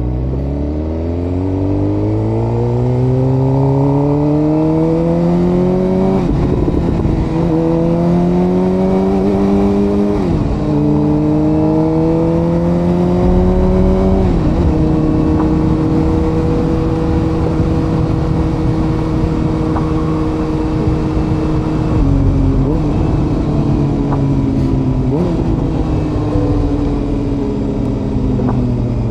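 Suzuki GSX-R750's inline-four engine pulling hard through the gears: the pitch climbs and drops back at three upshifts, then holds steady at cruise, and later drops with a short blip as in a downshift. Steady wind and road noise under the engine.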